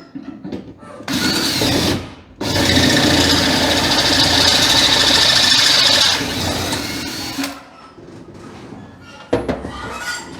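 Handheld power drill running: a short burst of about a second, then after a brief pause a longer steady run of about five seconds that eases off and stops. A few knocks follow near the end.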